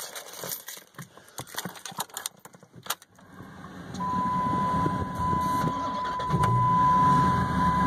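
A few clicks and rustles, then the 2010 Dodge Viper SRT10's 8.4-litre V10 starts about three seconds in and settles into a steady idle, with a steady high tone sounding alongside from about a second later.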